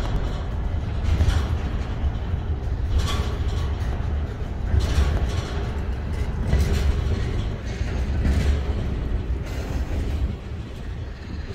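Freight train cars rolling past at close range: a steady low rumble of steel wheels on rail, with a louder clatter about every two seconds as each set of wheels passes. It eases off slightly near the end.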